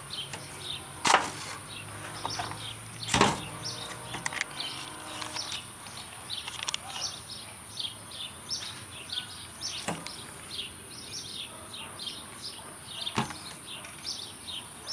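Small birds chirping in short, quickly repeated notes over a steady high-pitched hiss, with four sharp clicks or knocks: the loudest about one and three seconds in, fainter ones near ten and thirteen seconds.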